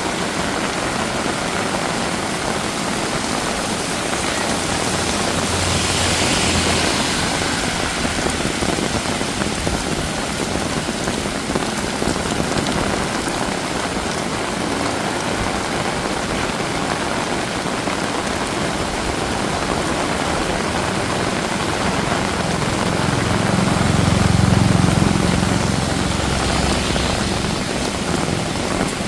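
Heavy rain pouring steadily, a dense even hiss. A hiss swells briefly a few seconds in, and a low engine rumble from a passing vehicle swells and fades about three-quarters of the way through.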